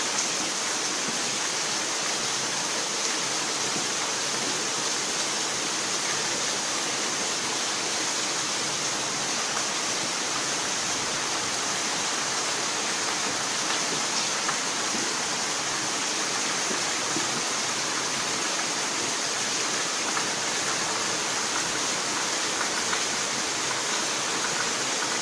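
Heavy rain falling, a steady hiss of water with faint scattered drop ticks.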